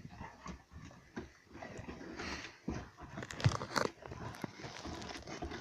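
Husky gnawing and chewing on a bone, with sharp crunches and cracks between about three and four seconds in.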